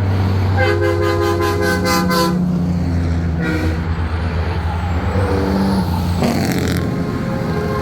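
Semi-truck air horns sounding over the steady rumble of big-rig diesel engines: one long multi-note horn blast from about half a second in lasting nearly two seconds, shorter blasts around three and a half and five seconds in, and another horn starting near the end.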